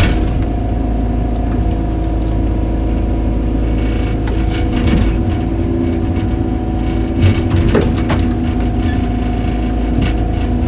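Excavator engine running steadily under load, with a few sharp cracks about halfway through and again past two-thirds of the way.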